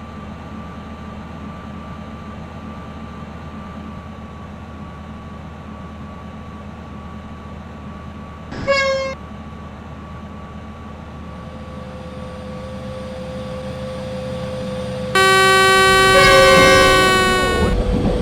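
Train horn: one short toot about halfway through, then a long, loud blast of several tones near the end. Underneath is a steady rumble that grows louder as a train draws near.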